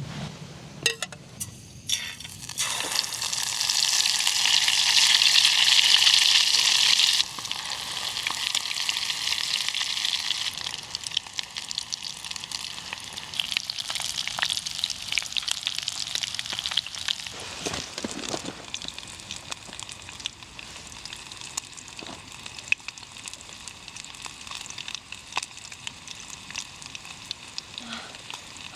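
Marinated chicken frying in hot oil. A few clicks in the first two seconds, then a loud sizzle starts about three seconds in, drops suddenly a few seconds later, and carries on quieter with scattered crackles.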